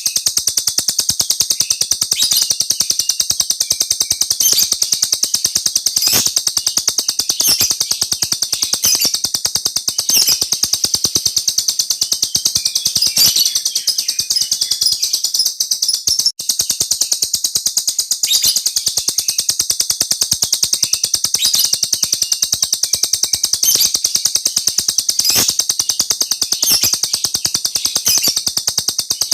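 Small songbird singing a long, high-pitched, very fast rolling trill with hardly a break, stopping only briefly about halfway through, with sharper notes standing out every second or two.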